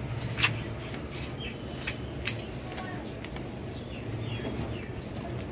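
Faint short bird chirps over a low steady hum, with a few sharp clicks.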